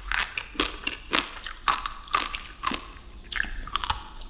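Close-miked eating of a crunchy sweet: repeated crisp bites and chewing, about two crunches a second.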